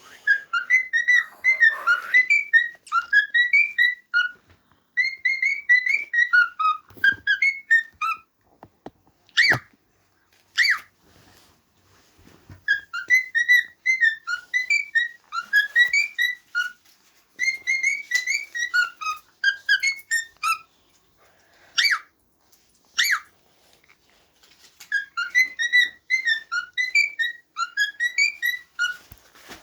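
Cockatiel whistling its courtship song: phrases of quick, warbling whistled notes a few seconds long, with short pauses between them, and a few sharp clicks in the gaps.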